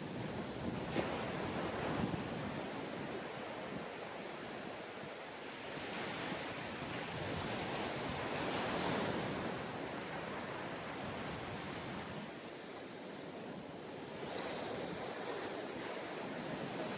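Ocean waves breaking and washing on a sandy beach, the surf rising and falling in slow swells every few seconds. Wind rumbles on the microphone.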